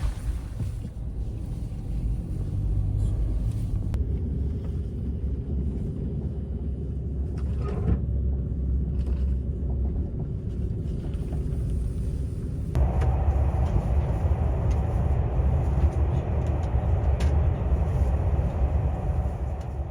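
Steady low road rumble of a car driving, heard from inside the vehicle; about 13 s in it grows louder, with more hiss added.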